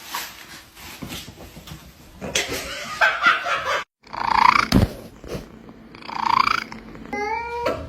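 Domestic cat meowing several times, with a pitched call near the end that rises.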